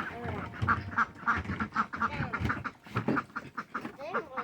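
Several domestic ducks quacking in quick, overlapping bursts, several quacks a second, with a few brief gliding calls near the start and end.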